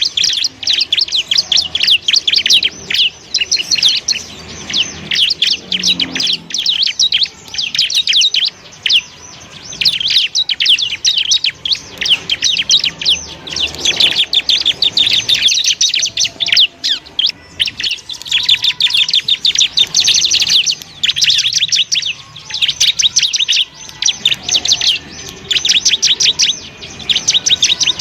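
Bar-winged prinia (ciblek) singing a fast, dense chattering song of very rapid high notes, in long runs broken by brief pauses.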